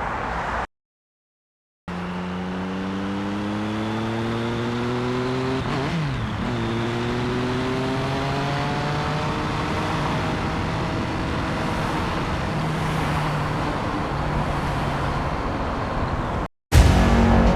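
A sound-effects mix playing back: a motorcycle engine accelerating, its pitch climbing with a dip about six seconds in, over a steady bed of city traffic. Playback stops and restarts twice in the first two seconds, and a sudden louder sound cuts in near the end.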